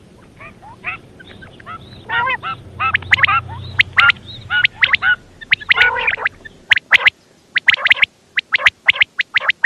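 Female common quail calling: a rapid, irregular series of short, sharp notes, some single and some in quick clusters of two to four.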